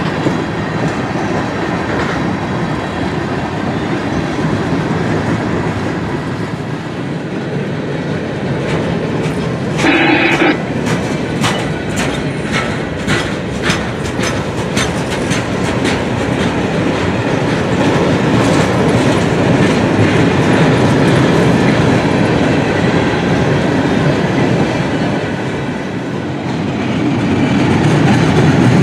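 Freight cars of a passing CSX mixed freight train: steady rolling noise of steel wheels on rail. About ten seconds in there is a brief squeal, followed by a run of sharp clacks, about two a second, as the wheels cross rail joints.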